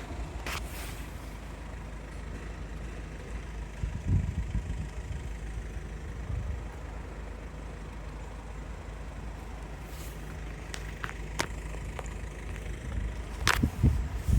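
Low steady rumble of motor vehicles, with a few short clicks and knocks and louder low surges about four seconds in and near the end.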